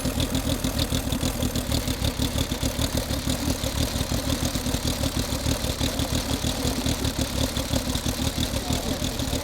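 Vintage pre-1915 motorcycle engine idling, with a quick, even beat.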